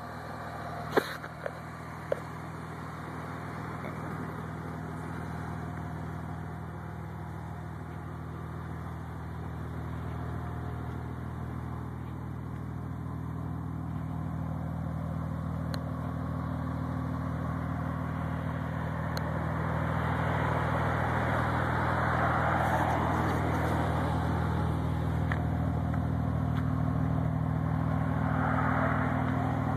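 Audi B5 S4's 2.7-litre twin-turbo V6 idling steadily, growing louder and breathier in the second half as the microphone nears the twin tailpipes. A few sharp clicks come about one to two seconds in.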